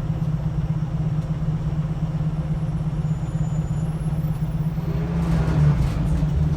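Scania L94UB city bus's diesel engine running steadily with a low drone, heard from on board; it swells slightly near the end.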